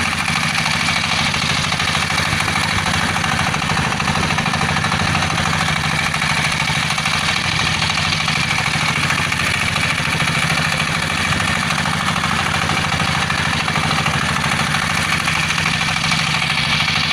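Fishing boat's engine running steadily, an even, unchanging drone.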